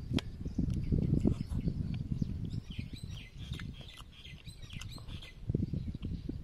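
Close-up chewing and smacking of roasted chicken pieces, heaviest in the first two seconds and again near the end, with a sharp click just after the start. Small birds chirp in the background through the middle.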